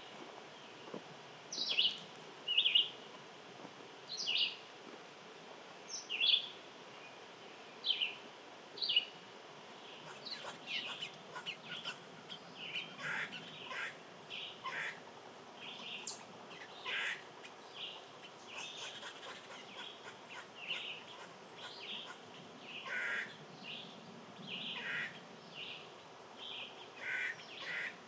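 Small wild birds chirping. For the first ten seconds there are single short chirps about a second apart; after that, more birds join with dense, overlapping chirps over a faint steady background hiss.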